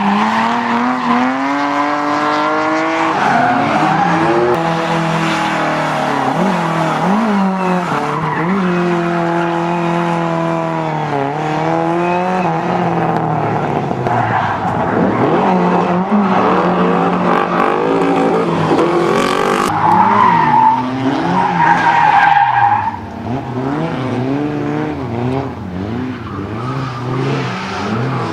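Car engine revving hard, its pitch climbing and dropping again and again through gear changes, with tyres squealing under hard driving. A loud tyre squeal comes about twenty seconds in.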